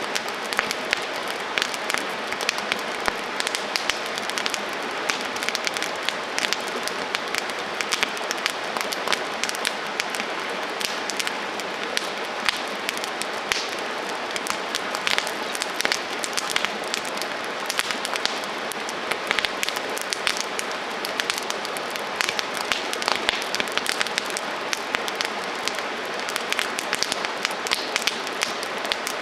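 Wood campfire burning, a steady hiss with frequent sharp crackles and pops.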